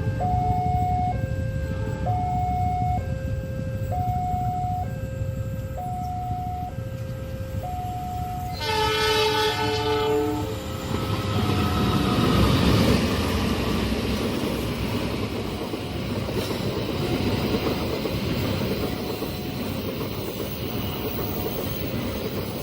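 Level crossing warning alarm alternating between two tones about once a second, then a train horn blasting for about two seconds near the middle. The rumble of a train passing over the crossing follows and carries on, with the alarm still faintly beeping under it.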